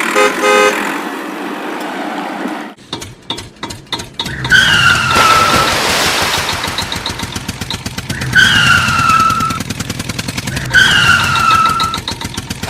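Cartoon truck sound effects. A short horn toot sounds at the start, and a rapid clattering rattle comes about three seconds in. An engine then runs with a fast chugging pulse, broken by three falling honks.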